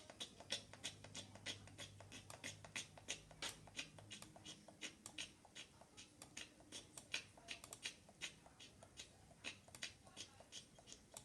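Faint, irregular light clicking, several clicks a second, over a low hum that fades out about halfway through.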